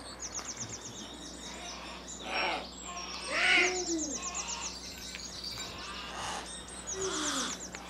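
Birds calling: a small songbird's high, rapid trill repeats three times, and short, lower arching calls from other birds come in between, the loudest about three and a half seconds in.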